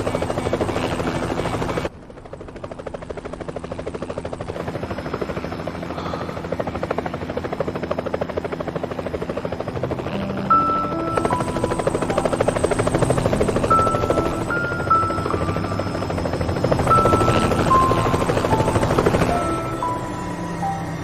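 Helicopter rotor and engine running, with a fast steady chop. The sound drops suddenly about two seconds in and then builds again. A gentle melodic music score comes in about halfway through.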